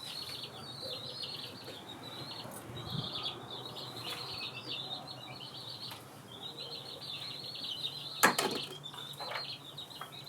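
Birds chirping and chattering in quick phrases with short pauses. A single sharp knock about eight seconds in.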